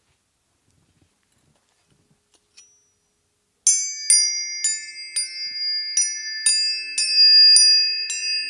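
A few seconds of near silence with faint clicks, then, about halfway through, a run of bright, high struck chime notes about two a second, each ringing on into the next.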